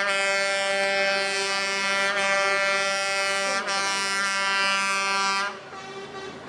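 Lorry air horn held in one long steady blast, cutting off suddenly about five and a half seconds in, leaving quieter traffic noise.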